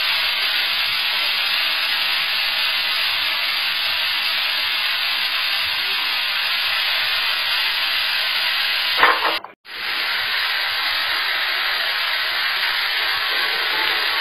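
Marinated chicken breast fillets sizzling in a lightly oiled nonstick pan: a steady, even sizzle that breaks off for a moment about nine seconds in.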